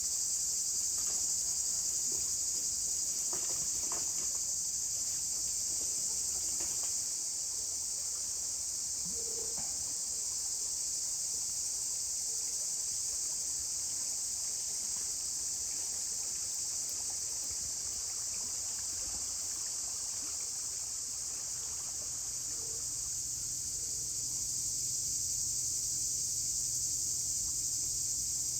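Steady, high-pitched insect chorus chirring without a break, with a few faint clicks about three to four seconds in.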